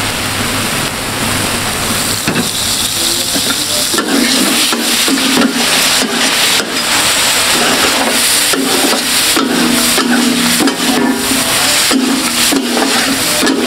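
Chicken sizzling in freshly poured desi ghee on a large metal tawa griddle. From about four seconds in, metal spatulas scrape and clack repeatedly against the griddle as the pieces are turned.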